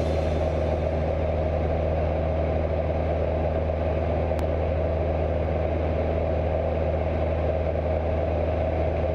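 Cessna 172's four-cylinder piston engine and propeller giving a steady, unchanging drone in cruise.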